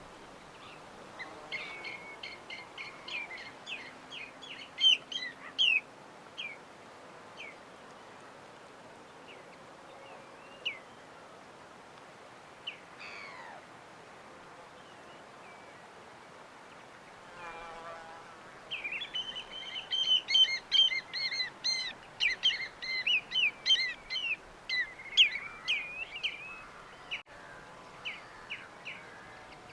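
Small birds chirping in quick runs of high notes: a busy spell about a second in and a denser one from around nineteen seconds, with scattered single calls between, over a steady faint background hiss.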